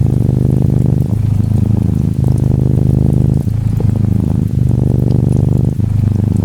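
Norwegian Forest Cat kitten purring close up, a steady low rumble that dips briefly about every second and a quarter as it switches between breathing in and out. Faint gentle rain patters behind it.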